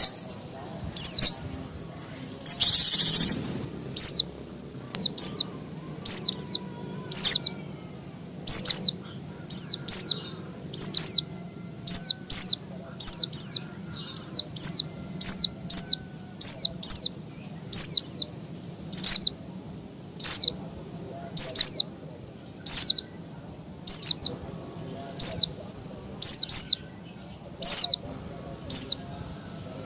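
White-eye (pleci) calling excitedly: a steady series of short, high, down-slurred notes, about one or two a second, with a harsh raspy call about three seconds in. A faint low hum runs underneath.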